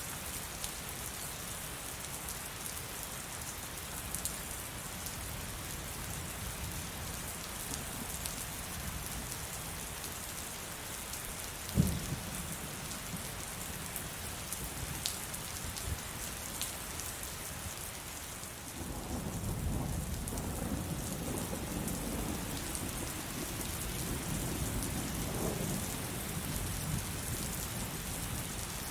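Heavy rain falling steadily, with thunder: one sharp thunderclap near the middle, then a long low rumble of thunder rolling through the last third.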